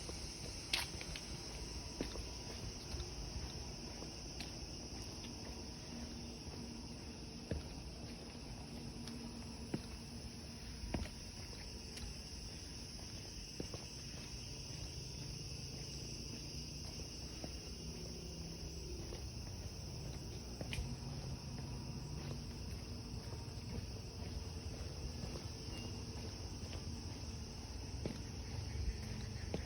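Steady high-pitched drone of forest insects, with a few scattered light clicks and knocks over a low background rumble.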